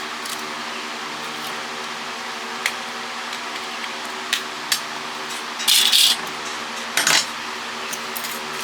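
Plastic and small metal parts of a cordless phone clicking and clattering as it is pried apart by hand: a few sharp clicks, then two short louder rattles about six and seven seconds in, over a steady hum.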